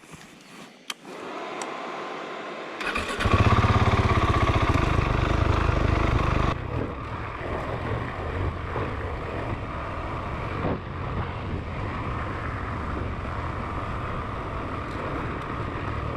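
Motorcycle engine starting and running: it builds up over the first seconds and is loudest from about three seconds in. About six and a half seconds in it changes suddenly to a steadier, quieter running sound.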